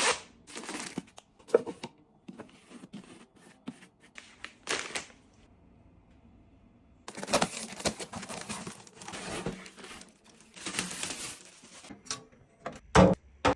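Packaging crinkling and tearing, with small clicks and taps of items being handled and set down. There is a short lull about halfway through, and a couple of sharp knocks near the end.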